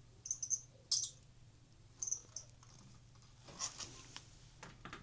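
Blade of a vibrating, likely ultrasonic, cutting tool touched against metal in short taps, giving about four brief high-pitched buzzes; the noise is the sign that the blade is vibrating. A faint low hum runs underneath.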